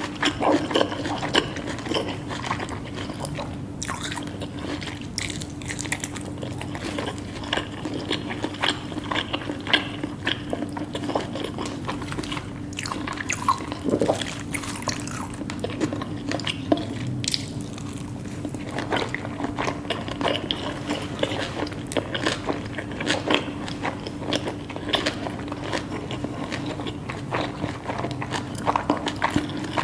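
Close-up eating sounds: chewing and crunching of food in the mouth, with many small irregular clicks and crackles throughout. A faint steady hum sits underneath.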